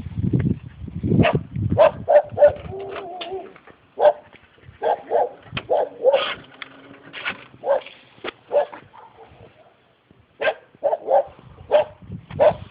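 A dog barking repeatedly in quick runs of short barks, with a brief whine about three seconds in.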